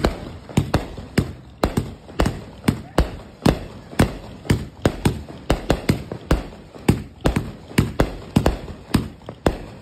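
Roman candles firing shot after shot: a rapid string of sharp bangs, about two to three a second, that stops just before the end.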